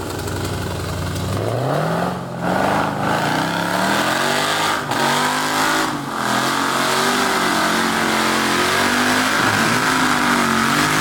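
Off-road 4x4 competition vehicle's engine revving hard, climbing in pitch about a second in, then held at high revs that waver up and down, with a few brief lifts off the throttle.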